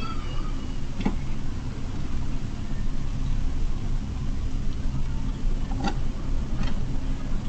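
Car engine idling with a steady low rumble. Three short sharp clicks come through, one about a second in and two close together around six seconds in.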